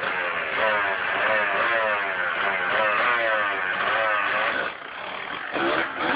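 Dirt bike engine revving hard, its pitch climbing in short repeated sweeps about twice a second. Near the end the engine note drops away and a few sharp knocks follow.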